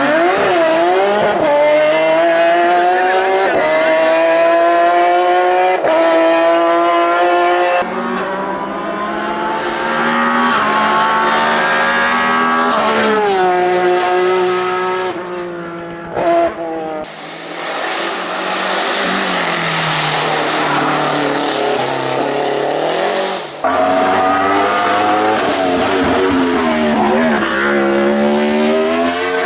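Race car engines at full throttle, pitch climbing and dropping back again and again as they shift up through the gears, with abrupt jumps from one car to the next. About halfway through there is a rougher, hiss-like stretch before the engine note returns.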